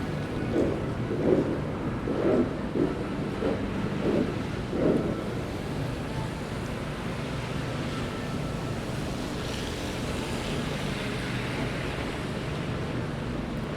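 City street traffic on a snowy night: a steady hum of engines, with a vehicle's tyres hissing past on wet snow between about ten and twelve seconds in. A string of short muffled thumps in the first five seconds.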